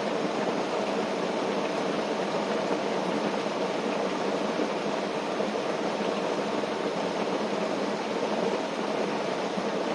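Steady rain falling on a tent, an even hiss without breaks.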